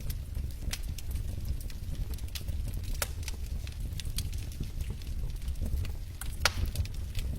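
Wood fire burning in a fireplace: irregular crackles and sharp pops over a low, steady rumble of the flames, with one louder pop near the end.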